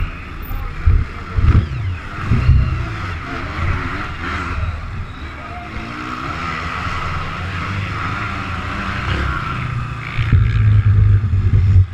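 Motocross bike engines running and revving on the track, the pitch rising and falling as the bikes accelerate and back off. Low rumbling gusts of wind buffet the microphone, most strongly from about ten seconds in.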